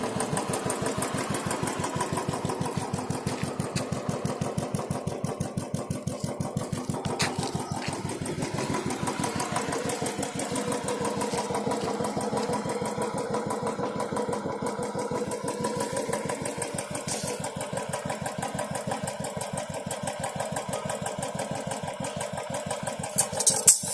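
Royal Enfield Bullet single-cylinder four-stroke motorcycle engine idling with an even, steady thump, run for an engine sound check. A few loud sharp clicks come just before the end.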